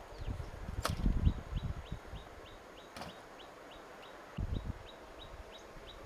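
A bird calling steadily in short, high, falling chirps, about three a second. Over it come a sharp knock just before a second in and another at about three seconds, with low thumps of handling about a second in and again past four seconds.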